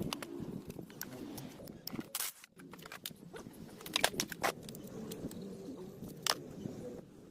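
Irregular clicks and sharp taps of parts and tools being handled, over a low rustling scrape, with a few louder knocks about two, four and six seconds in.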